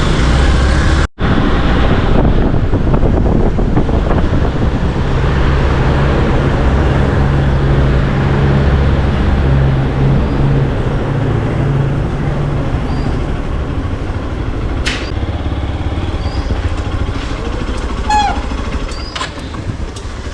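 Motorcycle on the move, its engine running steadily under heavy wind and road noise, with a brief break in the sound about a second in.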